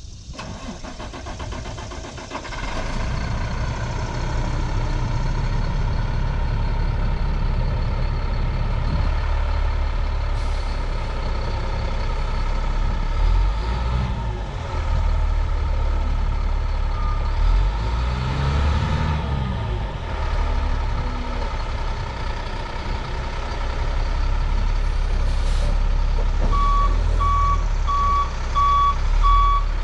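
Heavy truck engine of a 2005 Sterling LT7500 vacuum truck running steadily; it gets louder a couple of seconds in and briefly revs up and back down about two-thirds of the way through. Near the end a backup alarm starts beeping, about two beeps a second.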